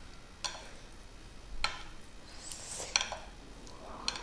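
Chopsticks clicking against a bowl while mixing ramen noodles: four sharp clicks about a second apart, with a short soft hiss shortly before the third.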